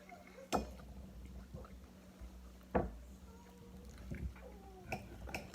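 Close-miked eating and drinking mouth sounds: a few short wet smacks and clicks, the loudest about three seconds in, over a faint steady low hum.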